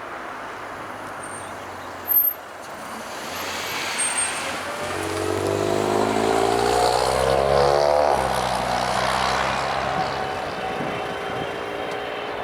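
Jet airliner passing close, its engine sound building, then the pitch of its tones dropping sharply as it goes by and fading. A brief knock about two seconds in.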